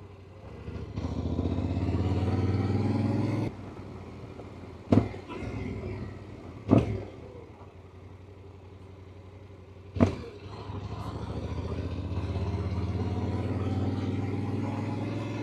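Yamaha Ténéré adventure motorcycle's engine accelerating, rising in pitch, then dropping off suddenly after a few seconds. Three sharp knocks follow at intervals. The engine then pulls up again and holds a steady note near the end.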